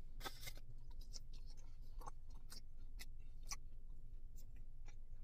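A person biting into a breaded fried chicken tender with a crunch about a quarter second in, then chewing, with scattered small mouth clicks. A low steady hum runs underneath.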